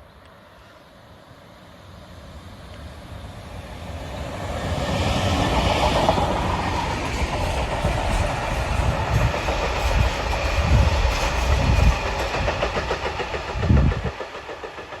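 Freight train approaching and passing at slow speed: the rumble builds over the first few seconds, then the wagons' wheels clatter over the rail joints in a steady rhythm, and the sound drops away sharply near the end.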